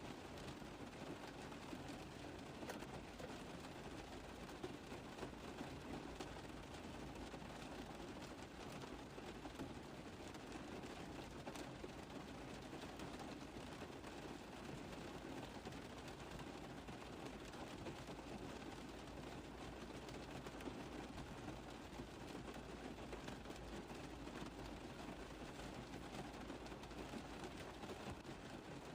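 Rain tapping on a car roof: a dense, even patter of many small drop impacts that stays steady throughout.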